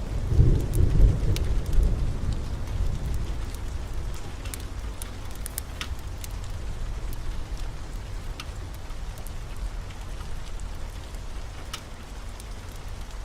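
A low roll of thunder that starts just after the beginning, is loudest for the first couple of seconds and fades away over several seconds, over steady heavy rain. Scattered sharp clicks sound throughout.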